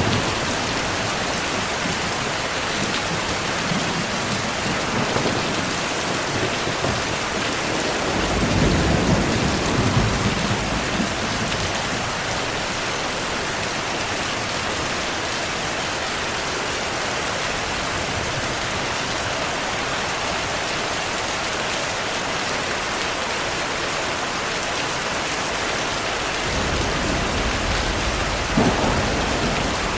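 Heavy rain falling steadily, with a roll of thunder about eight seconds in. A second rumble of thunder builds near the end, with a sharper crack.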